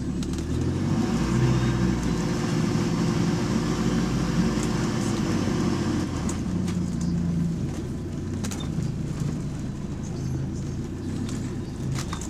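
Diesel bus engine running under load, its drone louder for the first half and easing after about six seconds; the bus has a bad turbo.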